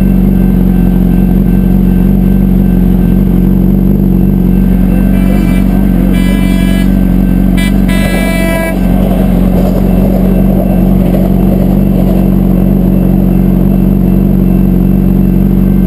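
Yamaha R1 sport bike's inline-four engine idling steadily. About five seconds in, a passing light-rail trolley sounds its horn in several blasts, the last a little longer, ending about nine seconds in.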